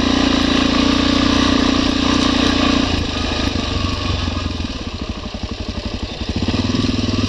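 Dirt motorcycle engine running steadily, then falling to an uneven, pulsing low-rev chug for a few seconds about halfway through before picking up again.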